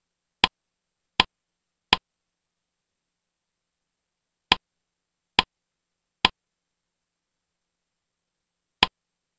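Short, sharp click sound effects from a slideshow animation, one as each element pops onto the slide, in near-total digital silence: three clicks about three-quarters of a second apart, a pause, three more, then a single click near the end.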